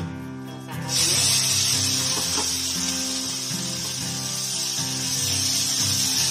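Chopped ingredients dropped into a kadai of hot mustard oil and spice paste sizzle, the sizzle starting suddenly about a second in and then holding steady as they are stirred with a wooden spatula. Background music plays underneath.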